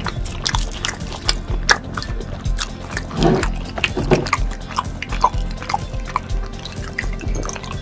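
Close-up eating sounds: a string of sharp crunchy bites and chewing, with background music carrying a steady low beat underneath.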